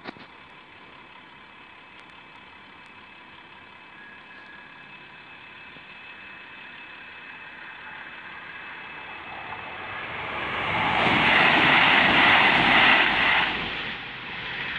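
Level crossing warning alarm sounding steadily while a train approaches and passes over the crossing at speed. The train's rushing noise builds slowly, is loudest in the last few seconds, then falls away abruptly as it clears.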